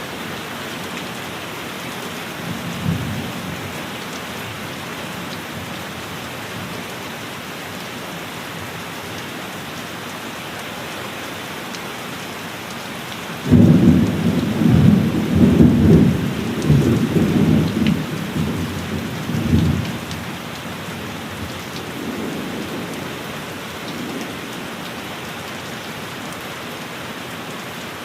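Steady heavy rain, with a faint roll of thunder a few seconds in. About halfway through, a loud thunderclap breaks suddenly and rumbles on for several seconds, then dies into weaker rumbles.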